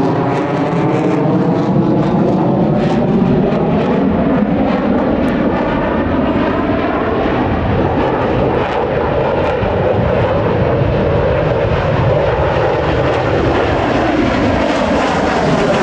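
Aircraft engine of a display aircraft flying past, loud and continuous; its pitch slides down over the first few seconds as it passes, and rises again near the end.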